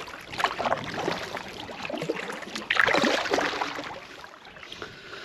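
Canoe paddle strokes in lake water, with splashing and dripping from the blade; the loudest stroke comes about three seconds in.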